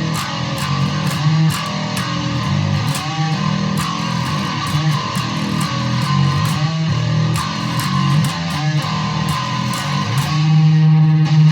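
Electric bass through distortion effects, played by pushing the string off the edge of the fretboard so the notes bend and warble, with many sharp plucking clicks; a really nasty, gritty tone that settles onto a louder held note near the end.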